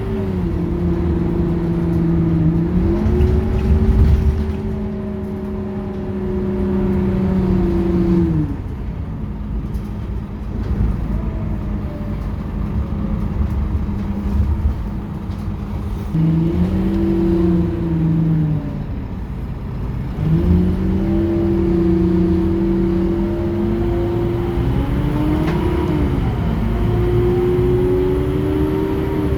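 Scania K230UB city bus's engine and drivetrain pulling, with a pitched whine that shifts in step at gear changes. The whine drops away about eight seconds in and picks up again twice later on as the bus accelerates from slow running.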